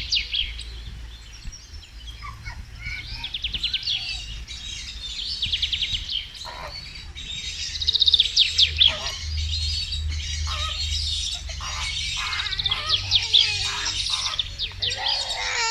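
Small songbirds singing: fast trills and chirps, many in quick succession and overlapping, over a low rumble.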